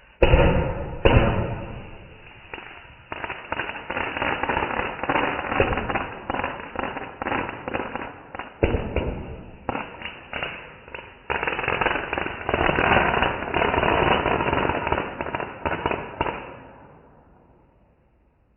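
Fireworks: two sharp bangs in the first second, then a long run of dense, rapid crackling and popping that fades away near the end.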